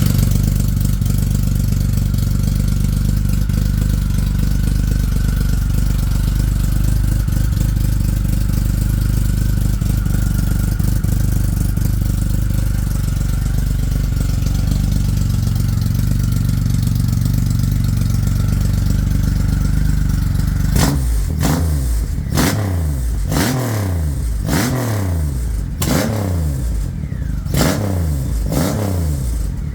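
Triumph Rocket 3 Touring's inline three-cylinder engine idling steadily through a home-built custom exhaust, then, about two-thirds of the way in, revved in a run of quick throttle blips, roughly one a second, each falling back toward idle.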